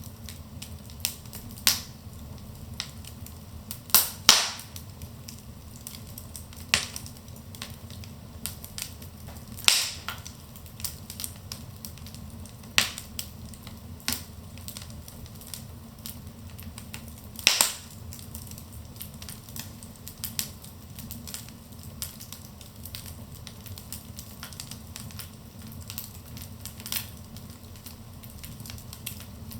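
Wood fire burning in a fireplace: a steady low rumble of flames with irregular crackles and pops, a few sharper snaps standing out, the loudest about four, ten and seventeen seconds in.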